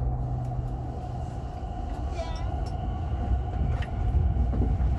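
Inside a subway train pulling away from a station: low running rumble that grows louder toward the end. A steady low hum cuts out about a second and a half in.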